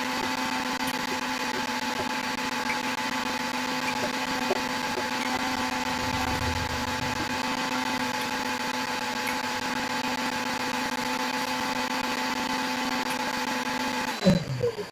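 A small electric motor, like that of a food-stall blender, runs with a steady hum. Near the end it cuts off and spins down with a falling pitch, followed by a few sharp clatters.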